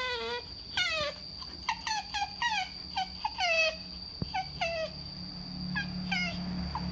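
Pet otter squeaking to beg for food: a quick run of about a dozen short, high-pitched calls, each sliding down in pitch. A faint steady high tone runs underneath.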